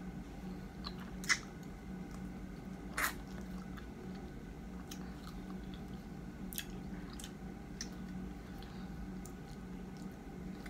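Close-mic mouth sounds of biting into and chewing small, soft 'baby mango' fruit: wet, squishy chewing with a few sharp clicks, the loudest about a second and three seconds in.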